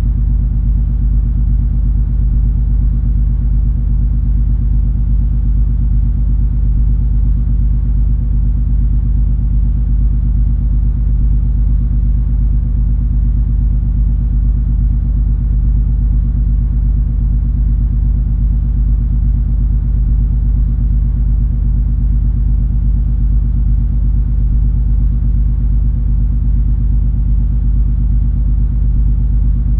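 Steady deep rumble of the cruise ferry MS Color Fantasy's engines and machinery while underway, a constant drone with a few steady low hum tones that never changes.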